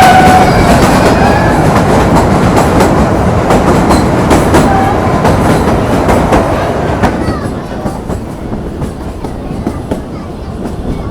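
Narrow-gauge Kalka–Shimla railway train running, heard from on board: a steady rumble of wheels and carriage with repeated clacks over the rail joints. It gets quieter after about seven seconds.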